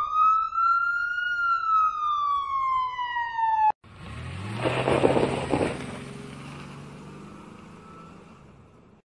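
Siren sound effect in one long wail that rises, then slowly falls and cuts off abruptly about four seconds in. Then the fire truck's engine pulls away, loudest about a second later and fading out.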